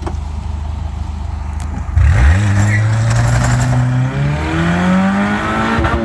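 Honda car engine heard from inside the cabin: a steady low hum, then about two seconds in it gets louder and revs up as the car pulls away and accelerates, its pitch climbing in steps.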